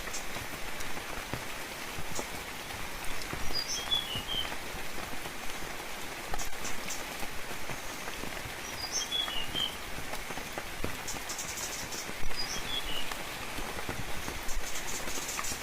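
Steady rain falling, with scattered louder drops. A bird calls a short phrase of a few quick high notes three times, about every four to five seconds.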